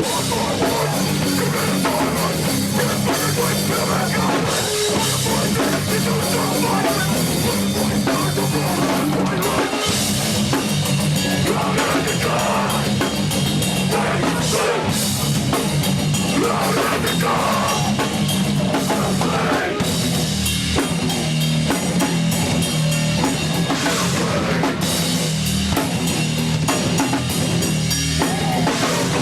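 Live heavy rock band playing loud and full, with drum kit pounding throughout, heard as a raw room recording.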